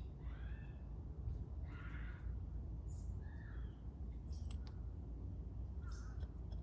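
Birds giving short calls every second or so over a steady low rumble, with a few sharp clicks.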